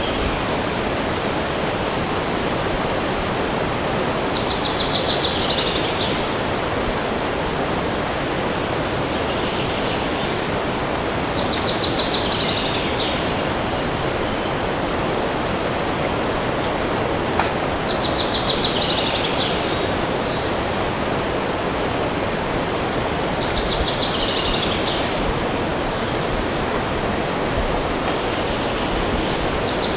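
A songbird repeats the same short trilled song, about a second and a half long, roughly every six seconds, over a steady rushing noise.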